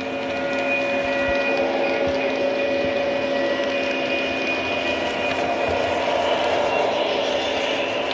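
Lionel model trains running on three-rail track: a steady electric-motor whine and hum over the rumble of wheels rolling, swelling slightly about a second in.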